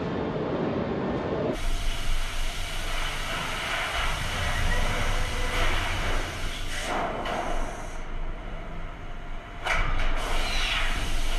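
Car on the move: a steady rush of road and wind noise that changes abruptly about one and a half seconds in, with short whooshes twice near the end.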